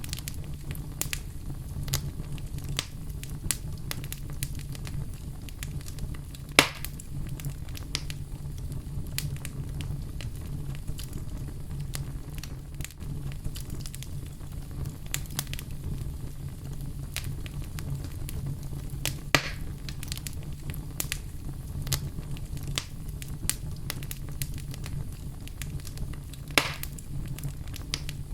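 Fireplace fire crackling steadily over a low rumble, with many small snaps and three louder pops, about a quarter of the way in, two thirds in and near the end.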